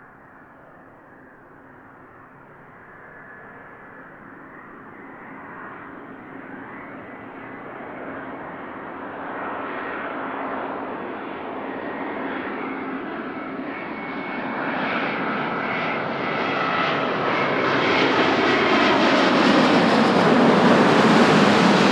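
Jet airliner approaching and passing close. Its engine noise rises steadily from faint to loud, a rushing roar with a high whine of engine tones on top, and peaks just at the end.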